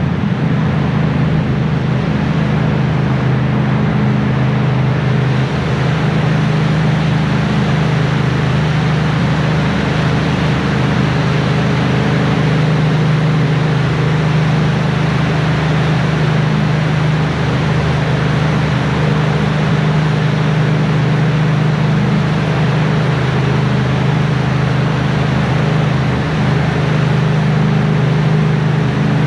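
Yamaha Tracer 700's 689 cc parallel-twin engine running at a steady cruise, pitch holding nearly constant, under a loud even hiss of wind, rain and wet tyres on the road.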